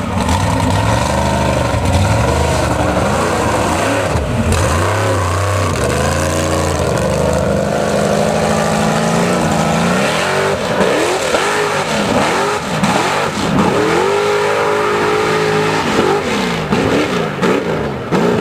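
Heavy modified 4x4 mud truck's engine running hard under load. From about ten seconds in, it revs up and down again and again in quick surges.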